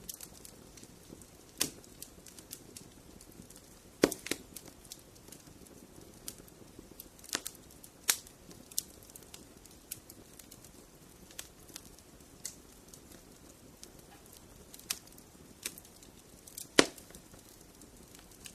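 Wood fire in a fireplace crackling: scattered small snaps over a faint low hiss, with sharper pops about four seconds in, about eight seconds in and near the end, the last the loudest.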